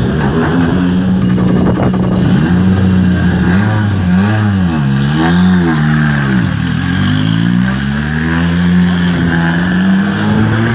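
A rally car's engine idling close by and being revved: the engine note is steady at first, then rises and falls in a few quick blips partway through, drops, and climbs slowly back up near the end.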